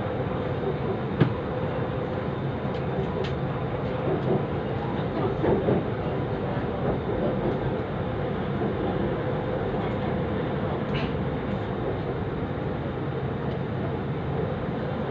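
Bangkok MRT Blue Line metro train running along the track, heard from inside the car: a steady rumble of wheels on rail with a constant hum. There is a single sharp click about a second in.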